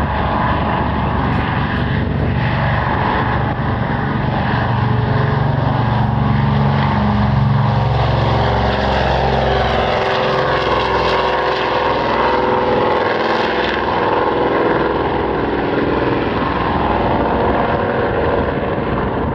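De Havilland DHC-4 Caribou's twin radial piston engines and propellers running loudly and steadily, the engine pitch dropping a little around the middle.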